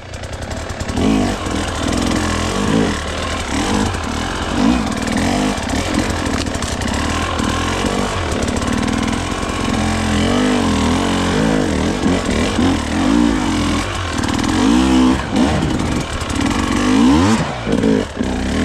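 Gas Gas hard enduro dirt bike engine running under repeated short bursts of throttle, its pitch rising and falling every second or two as it is ridden through rough, technical terrain.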